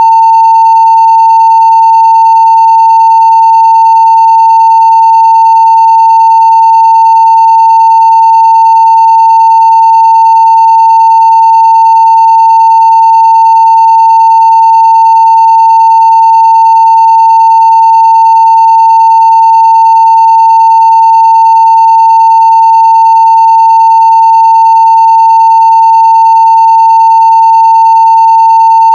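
A 900 Hz sine-wave test tone at full-scale level (0 dB), held steady and unbroken, with faint higher overtones.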